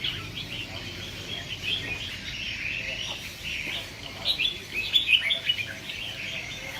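Red-whiskered bulbuls singing, several at once, with dense overlapping chirps and short warbled phrases. A few louder phrases come about four to five seconds in.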